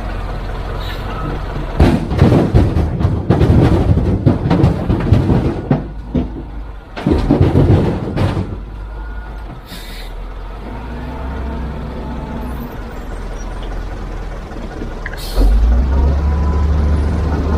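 Heavy construction machinery working: a diesel engine runs under loud, irregular crashing and rattling from about two to eight seconds in. The engine comes up louder a second or two before the end.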